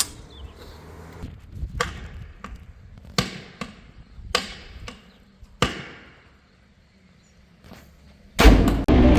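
A handful of sharp knocks, irregularly spaced and each ringing briefly, over faint background noise, then a short hush. Loud electronic music starts near the end.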